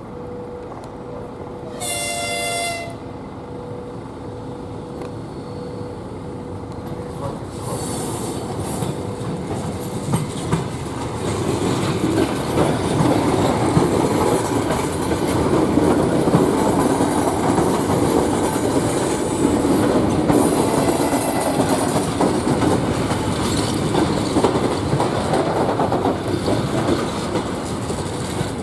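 EP3D electric multiple unit sounding one short horn blast about two seconds in. From about ten seconds it grows louder as it runs through the station, with wheels clattering over the rail joints.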